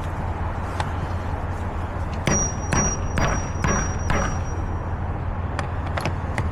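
Sharp metallic knocks on a heavy steel bolt seal on a trailer's door, about five in two seconds, the first leaving a high ringing tone, over a steady low idling hum and the hiss of rain: an attempt to break the seal by hand that is not working.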